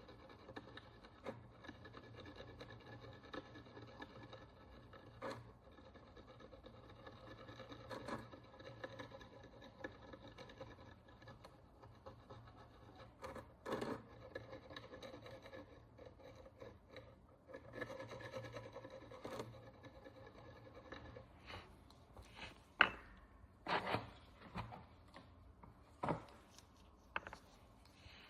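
Hand tool scraping and picking at the dirt and oxidation crust on an ancient Roman bronze coin: a faint, steady rubbing with scattered light ticks, then a few sharper clicks in the last several seconds.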